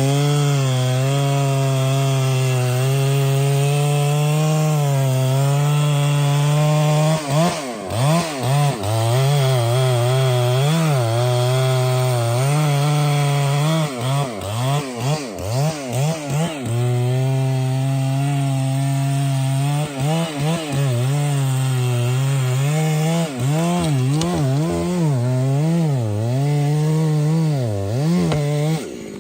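Petrol chainsaw cutting into a tree trunk. The engine runs at high revs, holding a steady pitch at times and at other times dipping and rising over and over as the chain bites into the wood. Its sound drops away right at the end.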